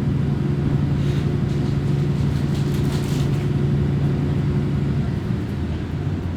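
Kominato Railway diesel railcar heard from inside the car: the engine drones steadily under power over rail running noise, then eases off about five seconds in.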